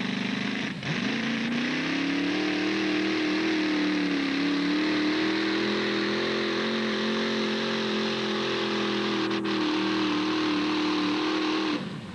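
Modified pulling tractor's engine at high revs, dipping and climbing in pitch over the first two seconds, then holding a steady high note before stopping abruptly near the end.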